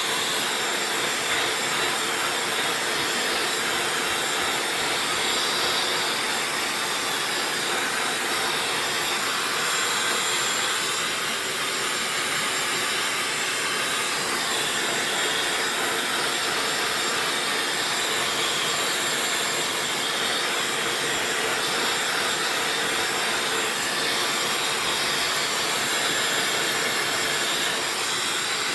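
Dyson hair dryer running steadily: an even, airy rush of blown air with faint high-pitched tones held above it.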